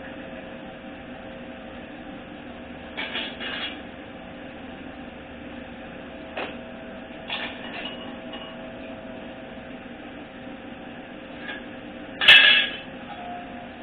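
Shop handling noises: a few light clatters of parts being moved and set down, then one loud metallic clank near the end.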